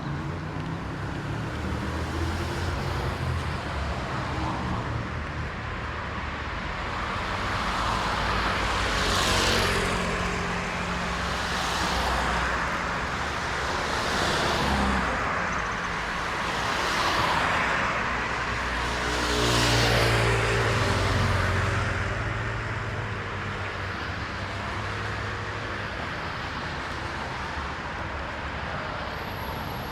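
Road traffic: a steady background of cars, with about five vehicles passing close one after another in the middle stretch, their tyres hissing on wet road, the loudest near the end of that run.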